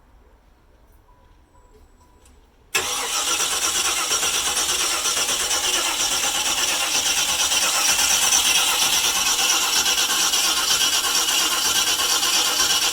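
A 1991 Jeep Grand Wagoneer's AMC 360 V8 being cranked on the starter, cutting in suddenly about three seconds in and running steadily for about ten seconds before stopping: a cold start attempt after three months of sitting.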